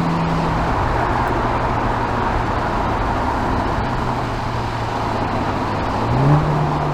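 MINI John Cooper Works Clubman's 306 hp four-cylinder turbo engine and exhaust running at a steady engine note. It drops back to a lower note about a second in, then rises quickly in pitch and loudness about six seconds in as the revs come up.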